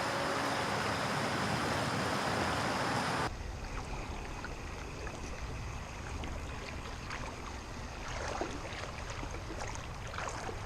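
Flowing creek water rushing steadily, louder for the first three seconds and then cutting suddenly to a quieter, gentler flow with faint scattered ticks and splashes.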